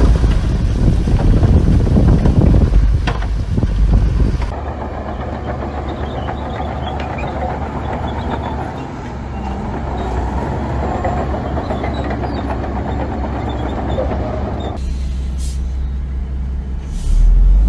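Heavy diesel earthmoving machinery running with a deep rumble. The sound changes abruptly about four seconds in and again near the end.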